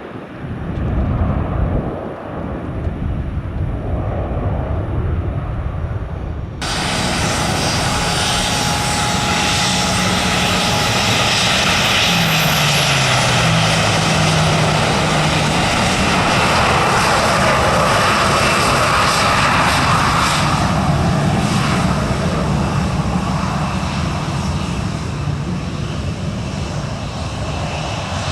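Jet airliner engines running loud as the aircraft passes, with a steady roar and engine tones that fall in pitch about twelve seconds in. The sound changes abruptly about six and a half seconds in and then fades slowly toward the end.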